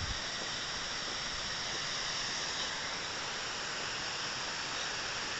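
Waterfall: falling water rushing with a steady hiss.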